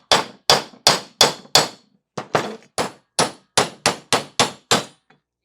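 Hammer blows on a bushing driver, metal on metal with a ringing clang, driving the old bushing out of a Crosley water pump's cast housing. About fourteen strikes at roughly three a second, with a brief pause about two seconds in.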